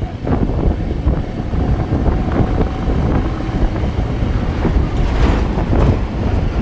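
Motorcycle on the move, its engine running under heavy wind rumble on a helmet-mounted microphone.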